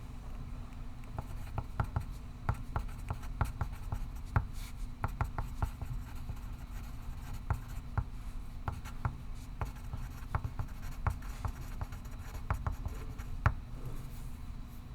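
Pencil writing on paper: a quick, uneven run of short scratchy strokes and taps that stops shortly before the end, over a steady low room hum.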